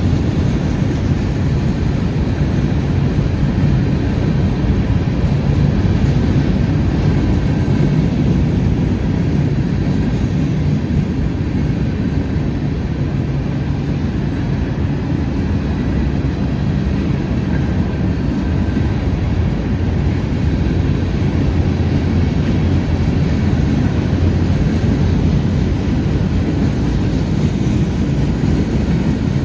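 Freight train cars rolling past in a steady low rumble.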